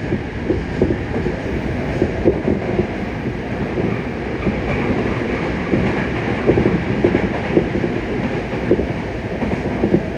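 Yokohama Municipal Subway Blue Line 3000N-series train running at speed: a steady wheel-on-rail rumble with irregular clatter and knocks from the track, heard from inside the car.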